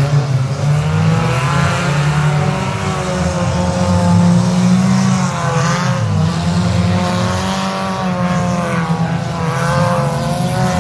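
Engines of modified front-wheel-drive demolition derby cars running and revving hard, several at once, their pitch rising and falling over and over.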